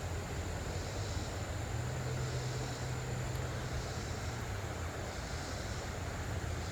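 Steady rushing noise of flowing creek water with wind buffeting the phone's microphone. A faint low hum sits under it from about two seconds in until about four and a half seconds.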